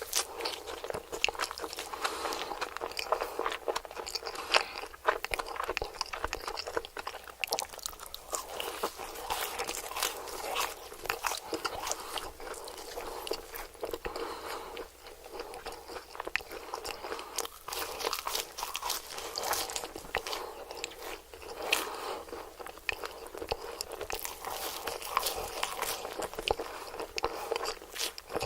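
Close-miked crunchy chewing and biting into crisp food: a dense run of crackles and crunches with no pauses.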